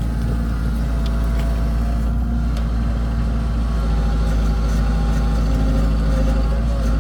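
Heavy diesel machine engine running steadily at an even speed, with a few faint clicks.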